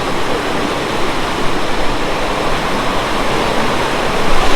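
A multi-step mountain waterfall in heavy flow: a steady, loud rush of falling water.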